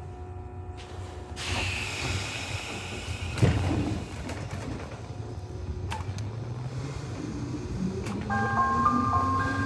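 Nishitetsu 600-series electric train sounds: a steady low rumble, a burst of air hiss about a second and a half in, and a sharp knock a couple of seconds later. Near the end, a short chime melody of steady stepped tones begins.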